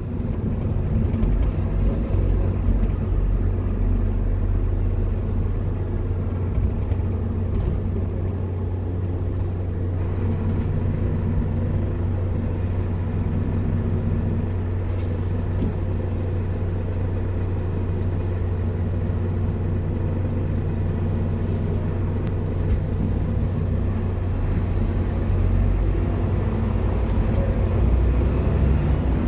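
Scania K230UB Omnilink bus's five-cylinder diesel engine running steadily under way, a constant low drone that holds its pitch with no marked revving.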